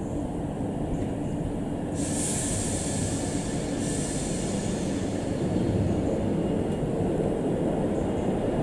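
Electric multiple-unit passenger train running slowly into the platform, with a steady low rumble of wheels and traction equipment. From about two seconds in, a high hiss or squeal from the wheels or brakes rises over it for about three seconds, with a brief break in the middle.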